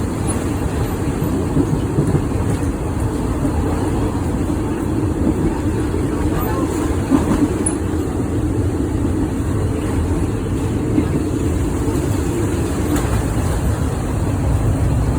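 Steady rumble of a moving train heard from inside a passenger carriage, with a few small knocks from the wheels and carriage along the way.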